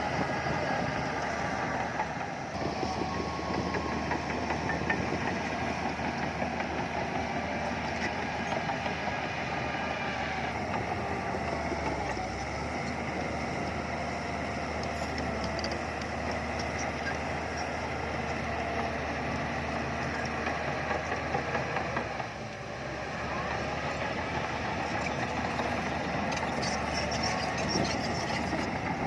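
Heavy diesel earthmoving machinery running steadily, its sound changing abruptly a few times.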